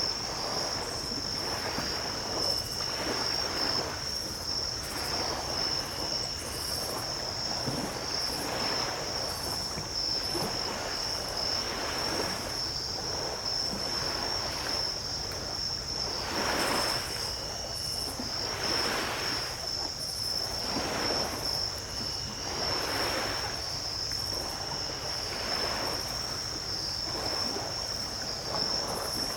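Small ocean waves washing onto a beach every couple of seconds, under a steady high-pitched drone of night insects. A short faint note repeats every few seconds.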